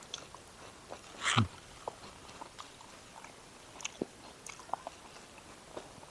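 Close-miked eating sounds: a person chewing and smacking their lips, with scattered small wet clicks and one louder smack about a second and a half in.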